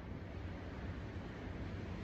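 Ocean surf heard from a distance as a steady, low wash, with no single wave standing out.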